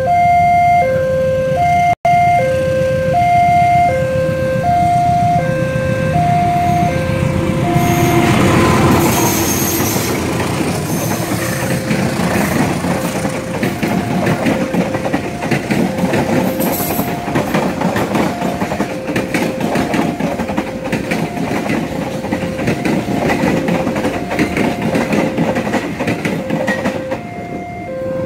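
Level-crossing warning alarm sounding a steady two-note alternating tone while a diesel-hauled passenger train passes, its wheels clacking over the rail joints. The train noise builds about eight seconds in and drowns out much of the alarm, then fades near the end, leaving the two-note alarm clear again.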